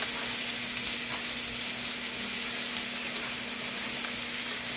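Kielbasa sausages and sliced green peppers sizzling in olive oil on a hot electric indoor grill: a steady frying hiss.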